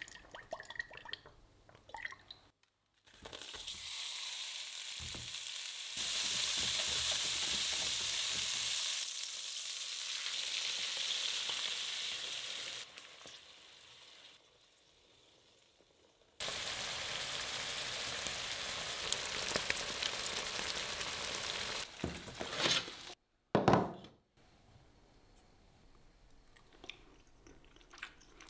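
Meatballs frying in pans: a steady sizzle that cuts in and out, with quieter stirring in between and a couple of sharp knocks near the end.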